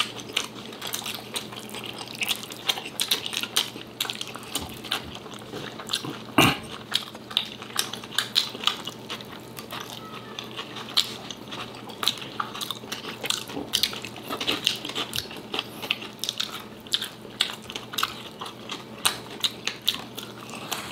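Close-miked wet chewing and lip-smacking from two people eating by hand, an irregular run of sharp clicks and smacks. One louder smack comes about six and a half seconds in.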